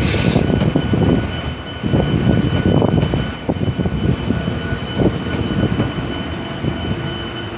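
Alstom Coradia Polyvalent bimode multiple unit rolling past close by: a loud, uneven low rumble that swells and fades, with a steady high whine running under it.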